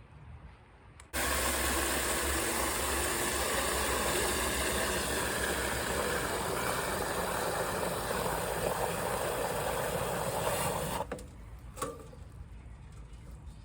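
Loud, steady static hiss that cuts in sharply about a second in and cuts off just as sharply near the end, leaving quieter background: the recording's audio failing.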